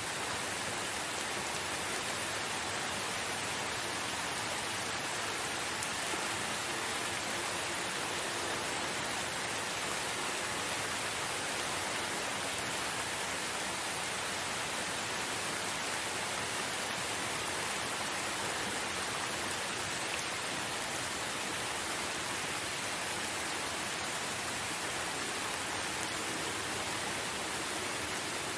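Steady rain falling, a dense, even hiss with no distinct drops or thunder.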